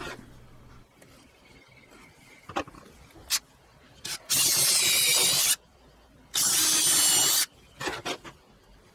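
Power drill boring screw holes in a wooden bracket piece, in two bursts of about a second each, with a few small knocks of handling before and between them.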